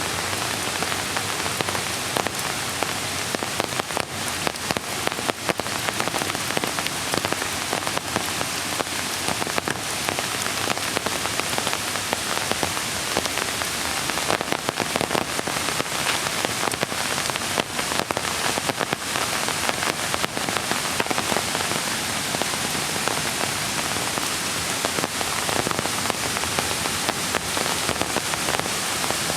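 Steady rain falling, with a dense scatter of sharp, close raindrop ticks over an even wash of water noise.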